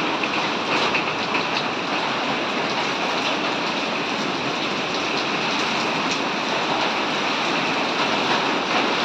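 Heavy rain pouring steadily: a dense, even hiss with scattered sharper drop impacts.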